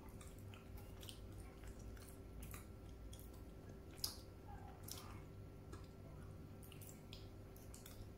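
Close-up chewing of Ajwa dates: soft, wet mouth clicks and squelches scattered irregularly, with one sharper click about four seconds in.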